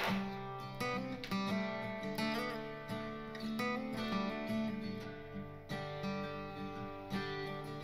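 Background music played on acoustic guitar, with a steady run of plucked notes and chords.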